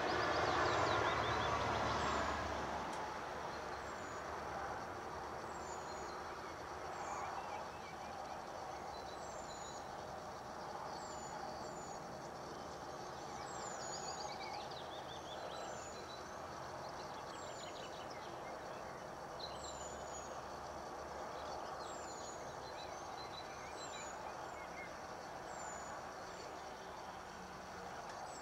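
Small birds singing, with one high, thin, falling note repeated every second or two and scattered chirps and short trills from others, over a steady background hum of distant noise. A louder rumble, like distant traffic, fades away in the first few seconds.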